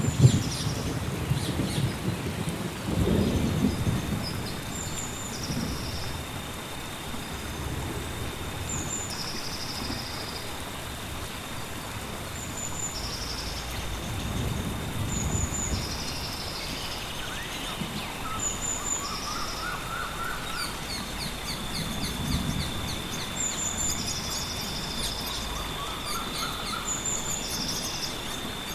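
Steady rain with several low rolls of thunder coming and going. Birds repeat short high calls every second or two, over a steady high-pitched drone.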